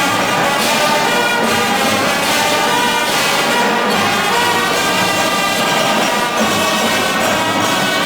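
Marching band playing: brass sustaining chords over steady drum strokes.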